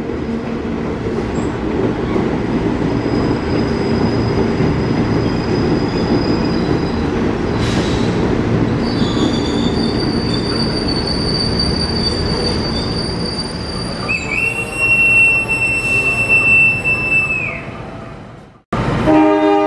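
KRL commuter electric train running along the platform and braking: a steady wheel rumble with high-pitched brake and wheel squeal from a few seconds in. Near the end a louder squeal falls in pitch as the train comes to a stop. The sound then cuts off abruptly and a horn-like pitched tone begins.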